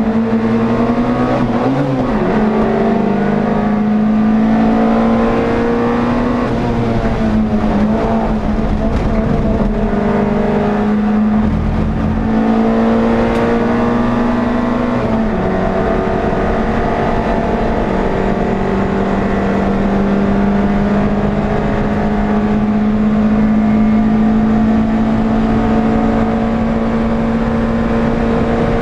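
NSU TT's air-cooled rear-mounted four-cylinder engine running at high revs on the race track, heard from inside the car. The engine note is held mostly steady. Its pitch dips and climbs back about two seconds in and again around the middle, the way it does when the driver lifts or changes gear.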